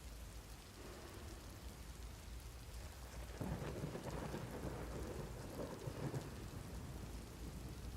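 Steady rain falling, with a roll of thunder that starts about three and a half seconds in and dies away about three seconds later.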